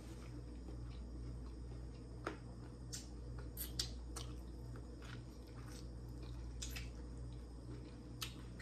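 Close-miked chewing of crispy fried chicken: wet mouth sounds with a handful of sharp crunches and lip smacks scattered through, over a steady low hum.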